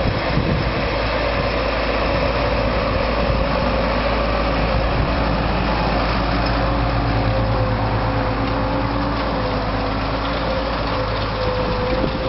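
Tractor engine running steadily under load, a continuous drone with a whine in it that sinks slightly in pitch about halfway through.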